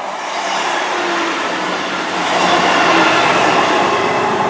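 Class 158 diesel multiple unit passing very slowly, its diesel engines running and its wheels rolling on the rails, with some thin whining tones. The sound grows louder about two seconds in.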